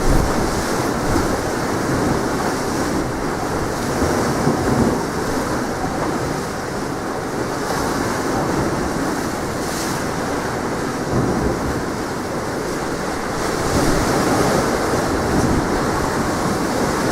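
Strong wind buffeting the microphone over sea waves washing ashore: a steady rushing noise with a heavy low rumble that swells and eases.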